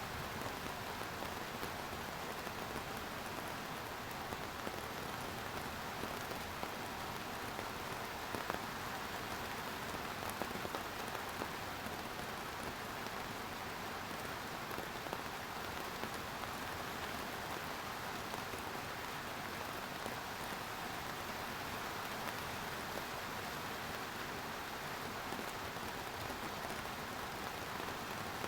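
Steady rain falling, an even hiss of drops on surfaces with an occasional single louder drop.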